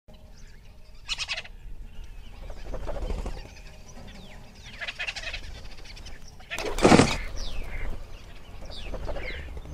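Nature ambience of birds calling and chirping, with several short falling whistles and one loud, short sound about seven seconds in.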